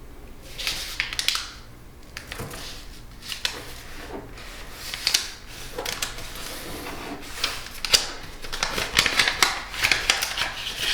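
Paper being folded and creased by hand: irregular crinkling and rustling with sharp crackles as folds are pressed flat, busiest in the last few seconds.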